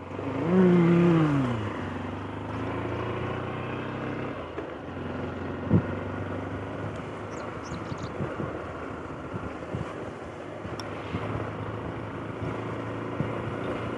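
Motorcycle riding along, its engine running under steady wind buffeting on a helmet-mounted microphone. Near the start a pitched tone rises and then falls over about a second, louder than the rest, and a single sharp knock comes about halfway through.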